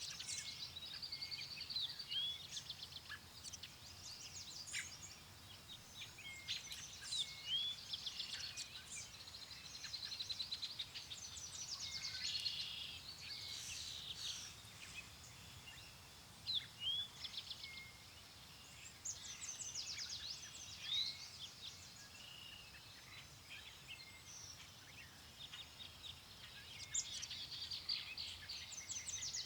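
Several songbirds singing and chirping at once, a continuous chorus of short trills, rapid chip series and brief rising whistles, over a faint steady low background.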